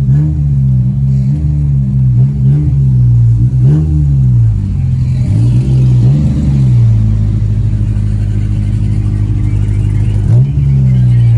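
Car engine running at low speed, its pitch rising and falling several times as it is revved or pulls away and eases off, then settling to a steady note for the last few seconds.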